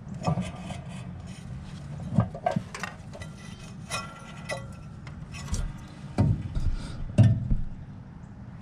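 Hands handling metal unit parts and tools: several sharp knocks, the loudest about two, six and seven seconds in, with rubbing and scraping between them over a steady low hum.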